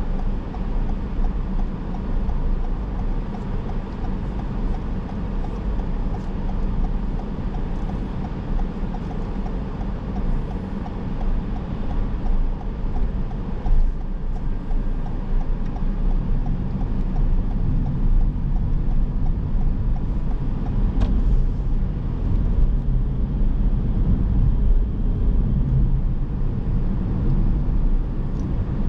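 Car driving, its running noise steady and low, with a light regular ticking for about the first twelve seconds.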